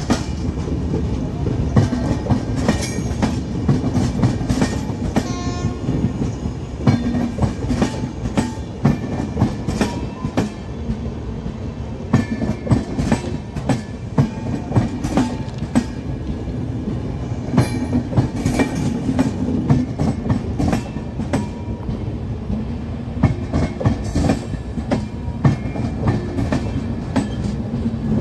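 An Indian Railways express of LHB passenger coaches rolling past close by, with the wheels clattering over the rail joints in a continuous run of knocks over a low rumble.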